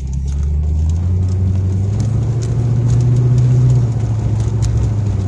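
Low, steady rumble of a car with its engine running, heard from inside, swelling through the middle and easing back near the end.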